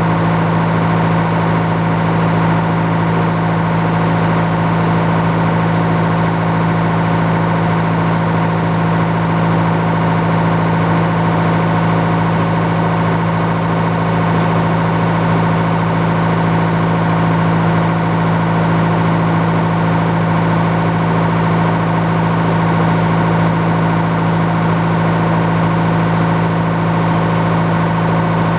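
Old Frick sawmill running steadily, its power unit holding a constant speed with an even, unchanging hum.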